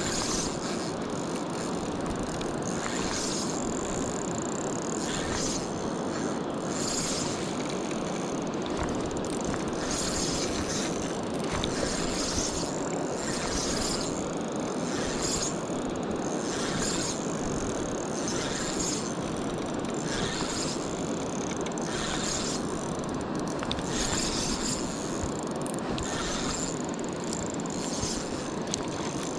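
Fishing reel being cranked in repeated spurts, a ratcheting whir about every one to two seconds, over the steady rush of river water.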